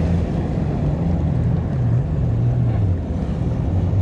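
Jet ski engine running steadily under way on the water, its pitch dipping slightly about halfway through and rising again.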